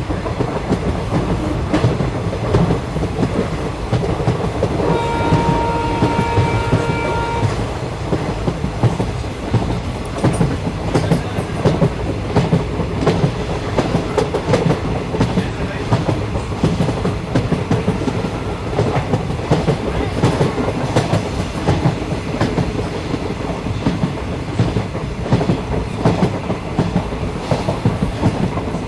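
A train running along the track with a continuous rumble, and wheels clicking and knocking over the rail joints. About five seconds in, a steady tone sounds for about two and a half seconds.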